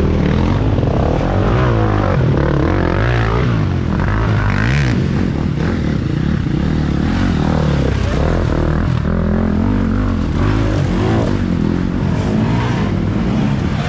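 Several off-road race dirt bikes revving as they ride through. Their engine notes rise and fall over one another with the throttle and gear changes.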